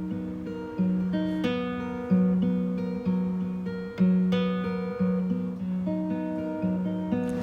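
Background music: plucked acoustic guitar picking a slow melody, each note fading after it is struck.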